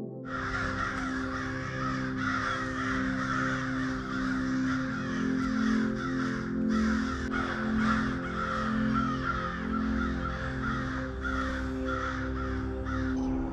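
Many birds calling at once in a dense, continuous chatter, over soft ambient music with long held notes.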